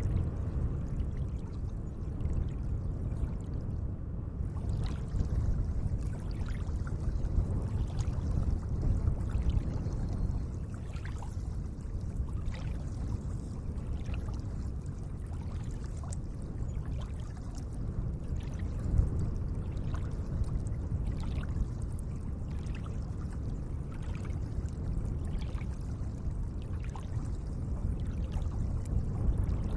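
Gentle lake water: a steady low wash with many small drips and splashes scattered through it.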